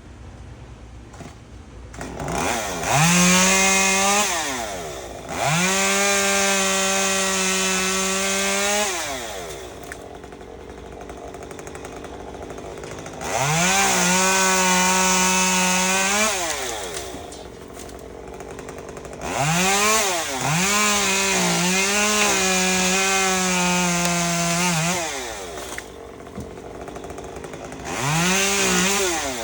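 Chainsaw revved to full throttle in five bursts of a few seconds each, dropping back to idle between them; the pitch wavers during the fourth, longest burst.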